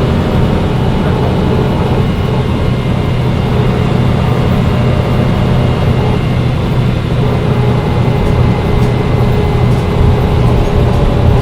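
Mercedes-Benz O405 N1 low-floor city bus heard from inside the passenger cabin: its engine running with a steady, unchanging drone and low hum, with cabin and running noise over it.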